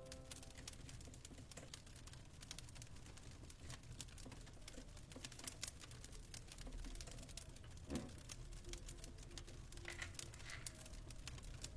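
Fireplace crackling: faint, irregular pops and snaps over a low steady rumble.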